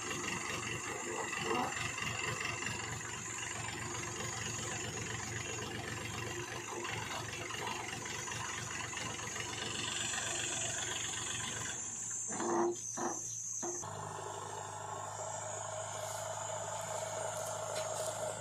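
Heavy diesel machinery engine running steadily. About twelve seconds in the sound changes abruptly: a few short louder sounds, then a smoother, steadier hum.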